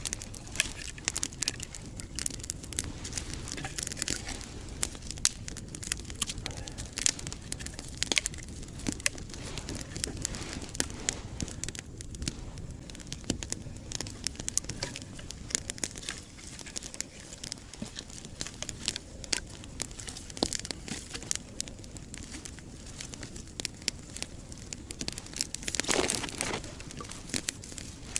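Campfire crackling, with irregular sharp snaps and pops throughout and a louder, longer burst of crackling about two seconds before the end.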